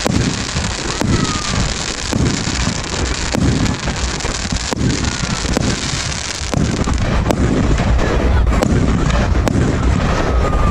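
Firework display: sharp cracks roughly once a second over a continuous crackling hiss, with heavier low booming rumble from about six seconds in.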